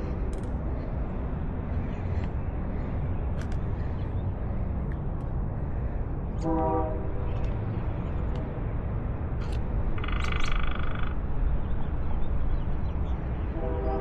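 Wind buffeting the microphone in a steady low rumble. Short pitched sounds cut through it about halfway through and again a few seconds later, and another starts near the end.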